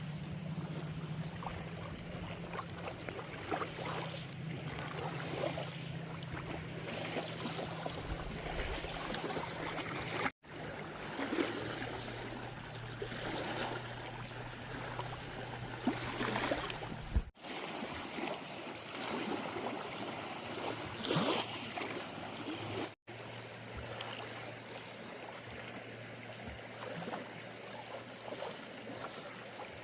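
Kayak paddle strokes splashing and water lapping against the hull, with a steady low hum underneath. The sound breaks off abruptly three times at edit cuts.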